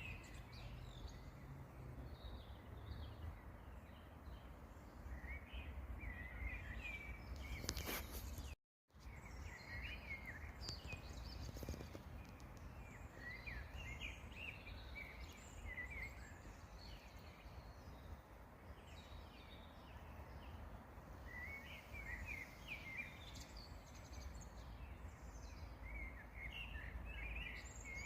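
Small songbirds chirping and singing in short scattered phrases over a steady low outdoor rumble, with a sudden brief gap in the sound a little before the middle.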